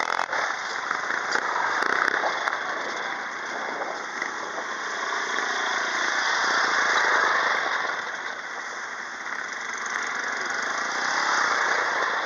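Quad bike engine running on the move, swelling louder about seven seconds in, easing off, then rising again near the end.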